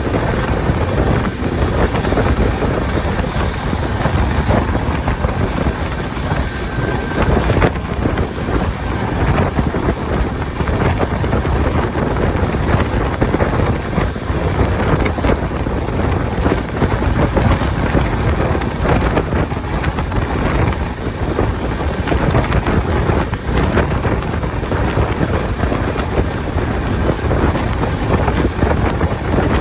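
Steady rush of wind buffeting the microphone over the low rumble of a moving express train.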